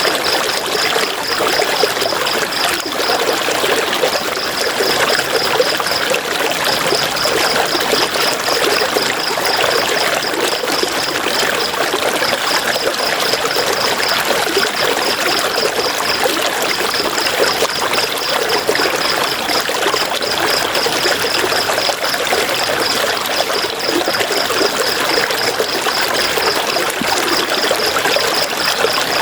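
River water flowing and splashing steadily. Over it runs a high-pitched chirp of about five pulses a second, coming in runs of a few seconds with short gaps.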